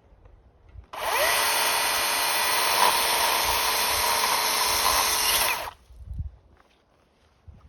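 Power tool motor spinning up to full speed, running steadily for about five seconds, then cutting off suddenly.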